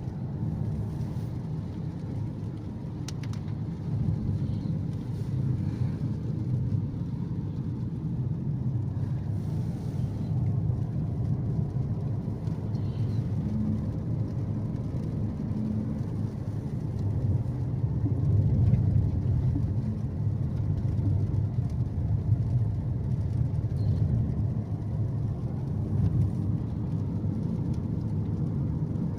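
Car driving uphill: a steady low rumble of engine and road noise.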